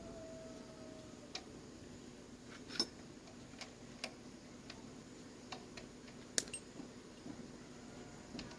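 Scattered light metallic clicks and taps at an uneven pace, the two sharpest about three and six and a half seconds in, over a faint steady hum: small tools or engine parts being handled and set down during motorbike repair.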